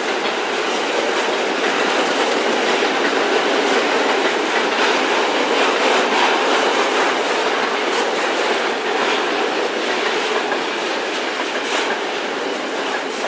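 Container freight train passing: the flat wagons roll by with a steady rumble and wheel clatter over the rail joints, easing slightly near the end as the last wagon goes by.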